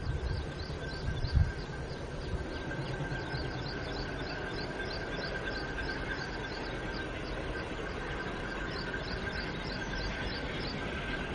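A bird chirping over and over, about three short calls a second, over a steady high whine and a low outdoor rumble. A few wind knocks on the microphone in the first second or two.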